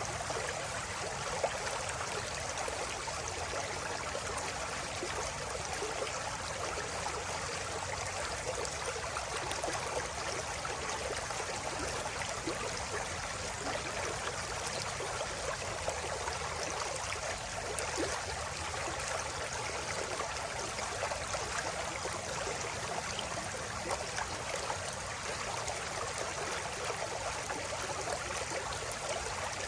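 River water flowing and burbling over rocks, a steady rushing with fine splashing detail.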